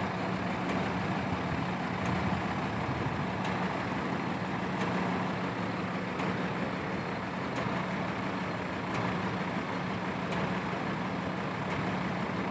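Heavy diesel engine running steadily at a constant speed, a continuous hum with a steady low tone.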